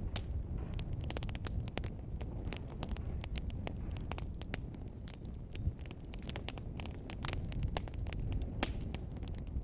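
Wood fire in a fireplace crackling, with many sharp pops and snaps over a low steady rumble of the flames; one pop stands out a little over halfway through.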